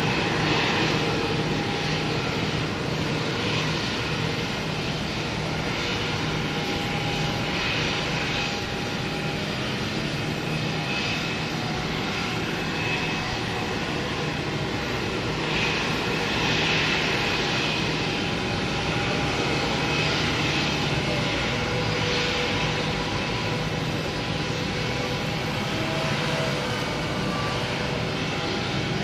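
Jet airliner engines running steadily: continuous engine noise with several held tones in it, swelling slightly a little past the middle.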